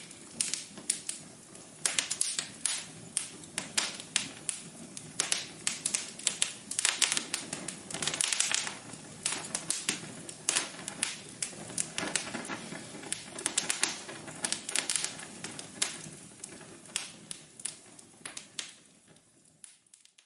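Wood fire crackling in a fireplace: irregular sharp pops and snaps, some in quick clusters, over a low steady rush of flame. The crackling thins out and fades near the end.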